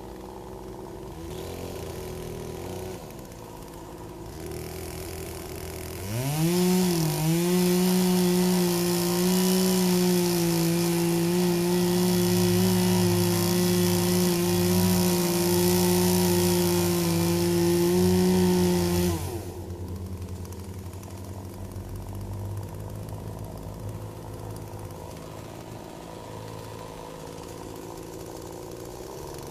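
Poulan 18-inch two-stroke gas chainsaw idling, then revved to full throttle about six seconds in and held there for about thirteen seconds while cutting into a tree stump, before dropping back to idle.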